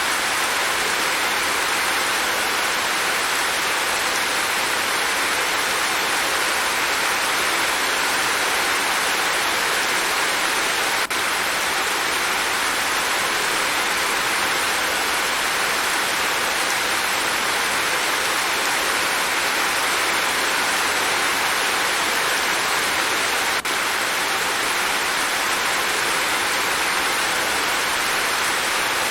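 Steady, even rain: a dense hiss of many drops falling. Twice, about 11 and 23.5 seconds in, it breaks for an instant with a faint click.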